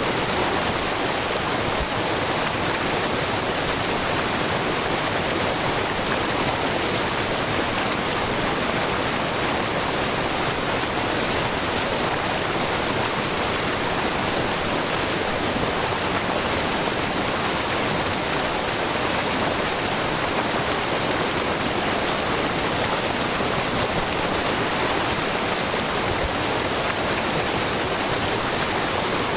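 Shiraito Falls, a low, very wide curtain waterfall of groundwater spilling in many thin threads over a rock face, pouring steadily into a babbling brook. A constant, even rush of water with no breaks.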